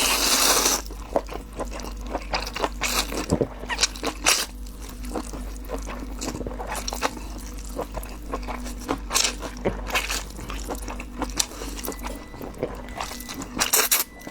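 Close-miked chewing and biting: a loud brief rush of noise at the start, then many short, irregular clicks of a mouth working on food.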